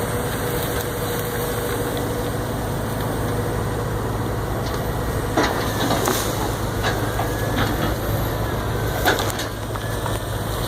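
A heavy engine runs steadily with a low hum. A few sharp cracks and knocks of storm debris come about five seconds in, again about a second later, and near the end.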